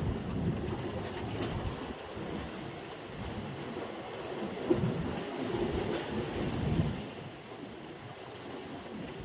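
Sea surf washing on the shore mixed with wind buffeting the microphone, rising and falling in gusts, with one short bump about halfway through.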